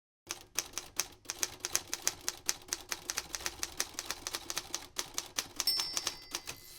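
Rapid, uneven clicking like typewriter keys, several strokes a second, with a faint steady high tone joining near the end.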